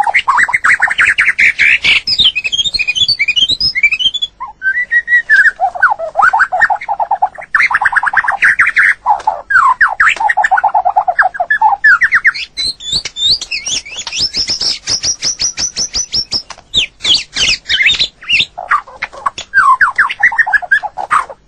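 White-rumped shama singing a nearly unbroken run of varied whistled phrases and fast trills. Some phrases sit low and some very high, with quick rattling runs between them.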